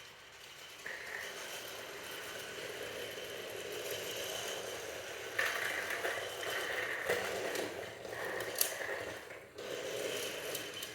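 Small toy train running along its track, a steady mechanical whirring and rattling that gets louder about halfway through, with a few sharp clicks.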